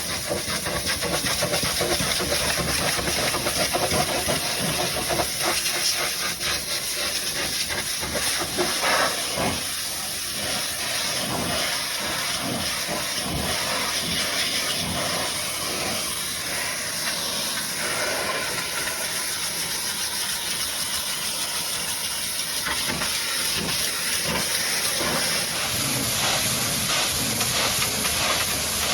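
High-pressure washer jet spraying water against a dirty truck, a steady hiss that wavers as the spray spatters off the surfaces.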